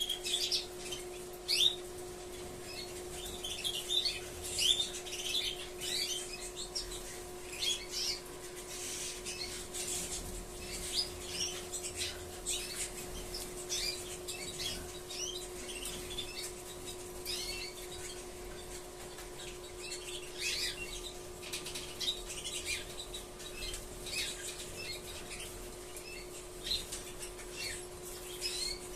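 Domestic canaries chirping and calling in quick, irregular short notes, with a steady hum beneath.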